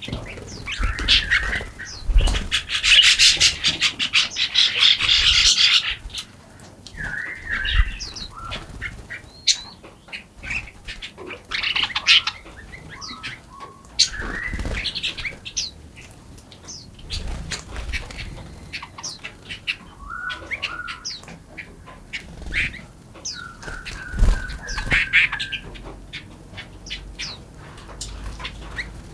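Several small songbirds chirping and calling, with a loud, fast chattering run of notes from about two to six seconds in. A few low thumps are heard as well.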